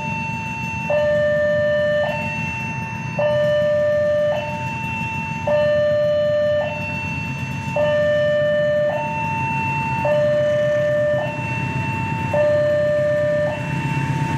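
Electronic two-tone warning alarm alternating steadily between a high and a low tone, changing about once a second, warning of an approaching train. A low steady rumble runs underneath.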